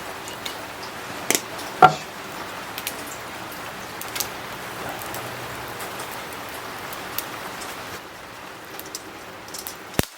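Shrimp sizzling on a charcoal shichirin grill: a steady hiss with scattered crackles and pops, the strongest about two seconds in. A sharp knock comes just before the end.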